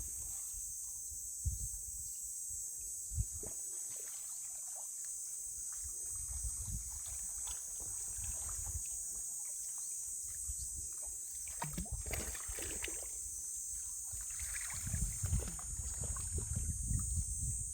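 Outdoor nature ambience: a steady high-pitched hiss with light water sounds and occasional low bumps, more of them in the last few seconds.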